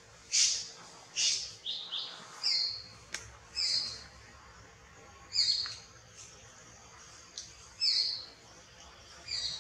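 A bird calling over and over: short, high notes that each slide down in pitch, repeated every second or two.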